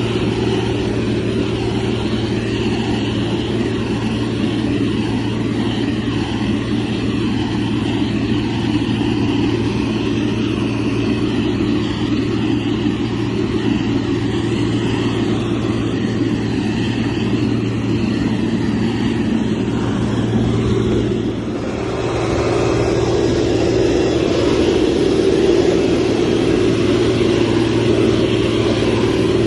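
Heavy construction machine's diesel engine running steadily under work. It eases off briefly about two-thirds of the way through, then picks up again.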